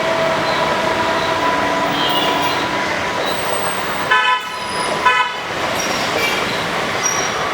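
Passing train making a steady rumble, with two short horn toots about four and five seconds in.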